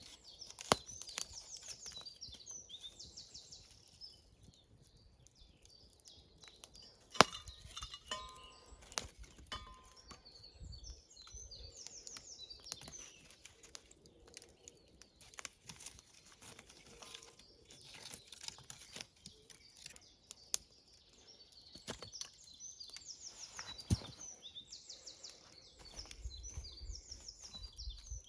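Songbirds singing, high quick trilling phrases repeated again and again, with scattered sharp clicks and knocks, the loudest about seven seconds in.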